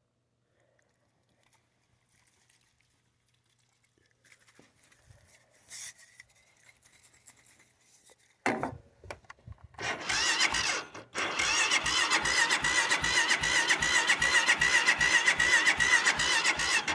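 An engine cranking on its electric starter from cold without firing. A short stab of the starter comes about halfway in, and after a brief break it cranks steadily, with a starter whine and about two compression pulses a second, until it stops near the end.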